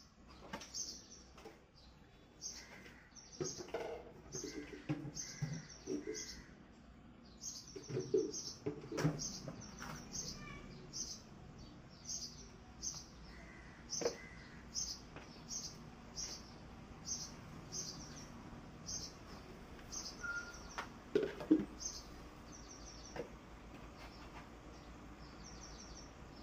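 A small bird chirping over and over: short high chirps repeating about once a second. Now and then come soft scrapes and knocks of a hand trowel working potting soil.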